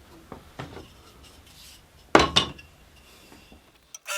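Metallic clicks, then one loud metal clank about two seconds in, as the upper blade guide on a small bandsaw is loosened and slid down, over a faint low hum.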